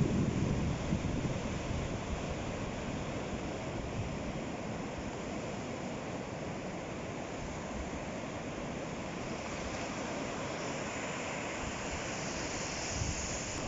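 Ocean waves washing onto the shore: a louder surge at the start that subsides into a steady wash of surf, with more hiss of foam near the end, and some wind on the microphone.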